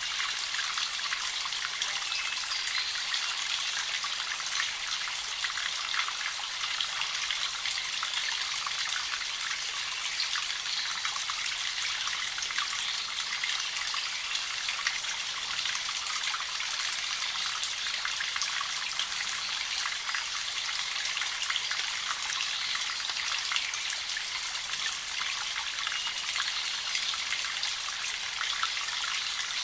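Small mountain spring trickling and dripping steadily, with many small drips and splashes.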